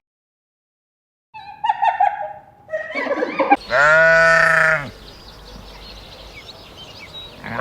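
A goat or sheep bleating: one long, loud bleat about three and a half seconds in, with another starting near the end. Shorter calls come before it, after a second or so of silence.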